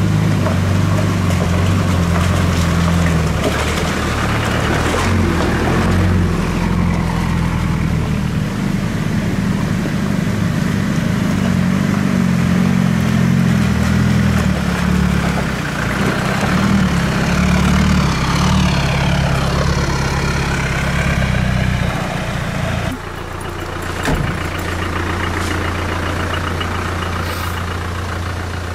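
Land Rover 4x4 engine running at low revs as the vehicle crawls down a rocky lane. A little before the end the sound switches abruptly to a steadier engine idle, with a single knock soon after.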